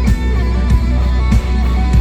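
Rock band playing an instrumental passage without vocals: guitar chords over bass, with a drum beat landing about every two-thirds of a second.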